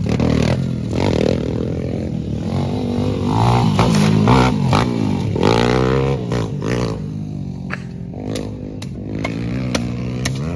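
Dirt bike engine revving up and down, its pitch rising and falling several times, with sharp clicks and clatter in the last few seconds.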